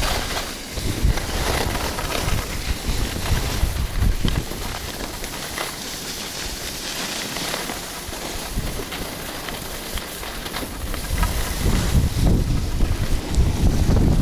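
Wind buffeting the microphone: a steady rushing noise with uneven low rumbling gusts that grow stronger near the end.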